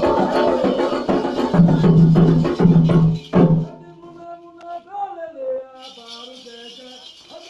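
Candomblé ritual music: drumming with rattle and percussion, stopping abruptly about halfway through. After that a single voice goes on alone, much quieter, with gliding pitch.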